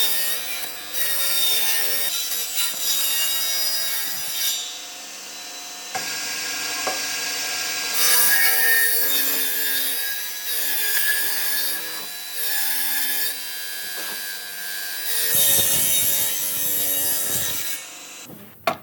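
A power tool cutting wood, its motor pitch dipping and recovering as it bites into the wood, over the rough hiss of the cut. It stops near the end.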